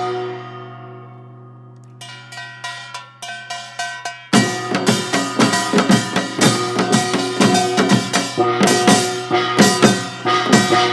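Live band music with a drum kit: a held chord rings out and fades, a light, sparse beat comes in about two seconds in, and the full band with drums crashes back in about four seconds in and plays on.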